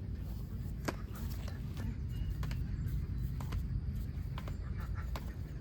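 A steady low rumble with scattered sharp clicks, about one a second.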